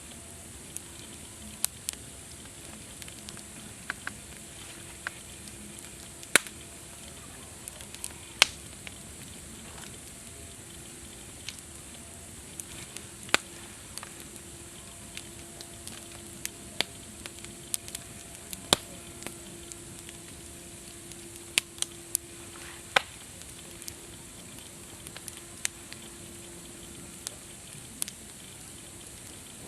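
Campfire burning with a steady low hiss and irregular sharp crackles and pops from the wood, a few much louder snaps among them.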